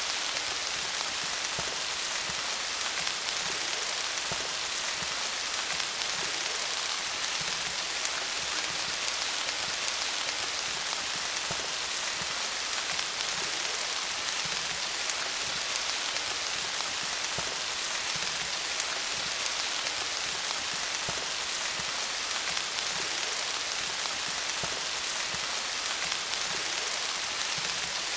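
Steady rain falling on leaves, a dense even patter of drops with no letup.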